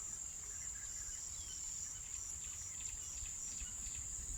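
A steady, high-pitched insect trill, with a few faint short bird chirps now and then.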